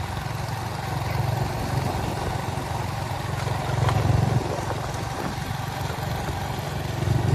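A motor vehicle engine running steadily with a low rumble, briefly louder about four seconds in and again near the end.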